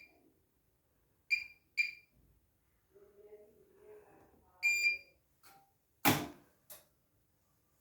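Washing machine control-panel beeps, one short high beep after another: two about a second and a half in, then a longer double beep near five seconds. They are followed about six seconds in by a loud sharp click and a smaller one.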